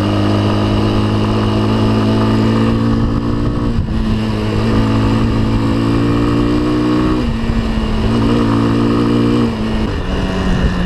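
Off-road vehicle engine running under way, its engine speed changing in steps three times.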